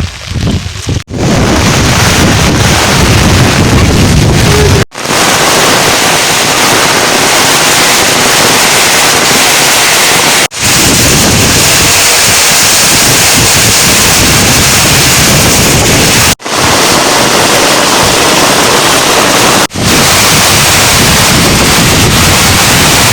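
Heavy rain pouring down, a loud steady hiss. It cuts out abruptly for a moment four times, at about 5, 10, 16 and 20 seconds in.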